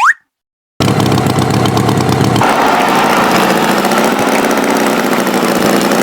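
A short rising chirp, then after a brief silence a tractor engine starts running steadily about a second in; its sound shifts higher, losing its low rumble, about two and a half seconds in.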